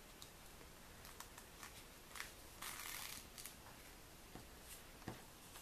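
Faint handling of paper and sticker sheets: a few light ticks and one short rustle a little under halfway through.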